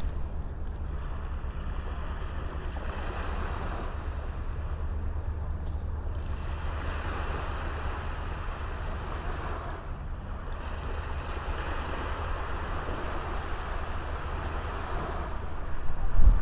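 Small sea waves washing onto a beach, the hiss swelling and fading every few seconds, over a steady low rumble.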